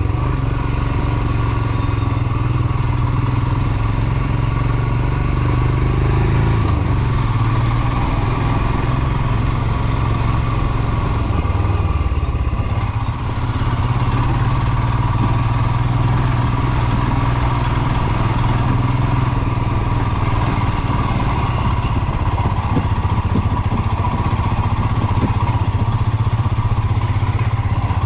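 Royal Enfield Himalayan's 411 cc single-cylinder engine running steadily on the move, with a brief dip in level about thirteen seconds in before it picks up again.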